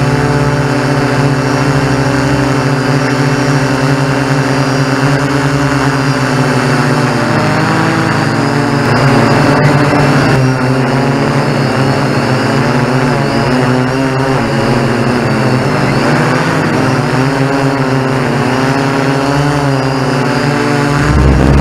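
Quadcopter drone's motors and propellers whirring in a steady, loud hum; about a third of the way in the pitch starts wavering up and down as the motors change speed.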